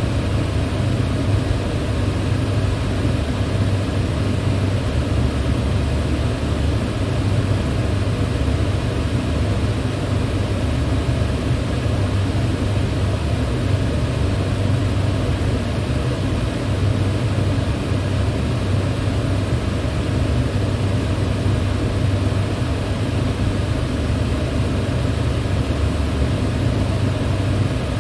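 Electric fan running steadily: an even whooshing hum of air, deepest and strongest at the low end, with no change in speed.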